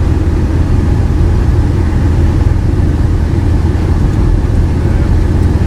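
Steady low rumble of a car's engine and road noise, heard from inside the vehicle.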